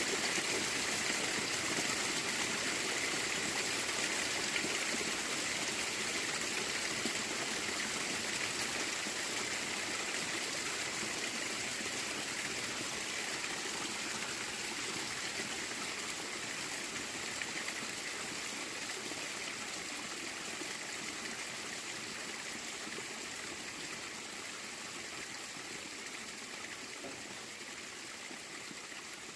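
Running water flowing steadily, slowly growing fainter.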